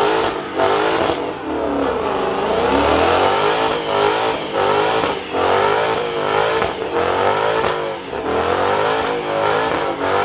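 Car engine revving hard and repeatedly, its pitch swinging up and down over and over, with short sharp snaps between the revs.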